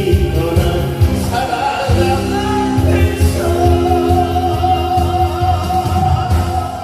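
A song sung live over an amplified backing track with a steady bass beat; from about three seconds in the singer holds one long note to the end.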